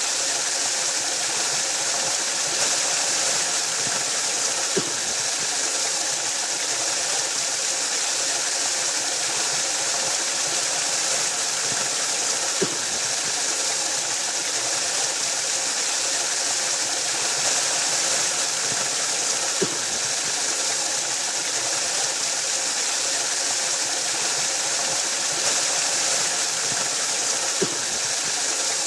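Waterfall: a steady rush of falling water, mostly high hiss, with a brief faint low knock about every seven or eight seconds.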